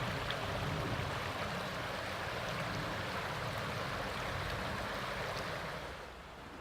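Steady rush of flowing creek water, dropping away near the end.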